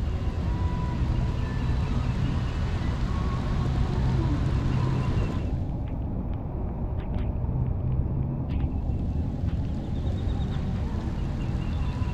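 Wind buffeting the microphone: a steady low rumble with a hiss over it, the hiss dropping away for a few seconds in the middle.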